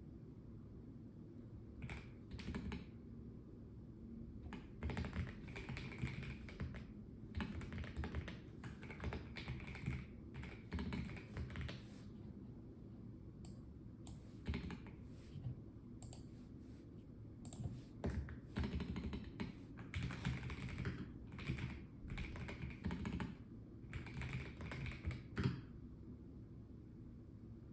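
Typing on a Melgeek Mojo84 plastic mechanical keyboard: quick runs of key clicks in bursts of a second or two, broken by short pauses.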